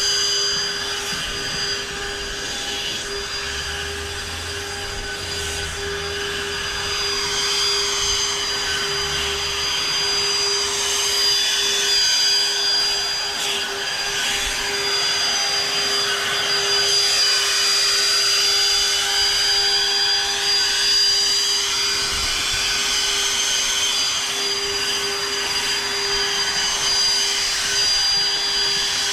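Battery-powered Toro Revolution lawn equipment running steadily with a high electric-motor whine over a rushing hiss. It cuts off suddenly right at the end.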